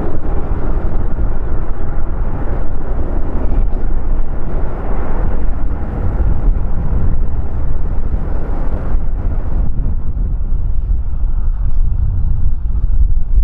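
Airliner jet engine noise mixed with heavy wind rumbling on the microphone. The higher engine sound fades after about nine seconds, leaving the low wind rumble.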